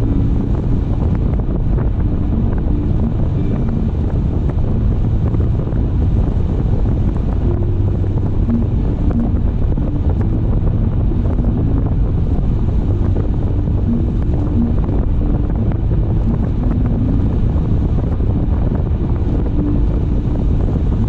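Steady low road rumble of a car driving: tyre and wind noise, with a faint on-and-off hum.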